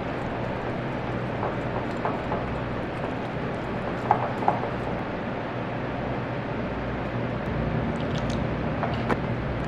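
Steady low rumbling background noise with a few light clicks, two of them close together about four seconds in.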